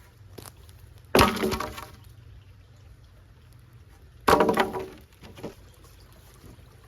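Wooden boards tossed onto a pile: two loud clattering impacts about three seconds apart, each ringing briefly, with a few lighter knocks around them.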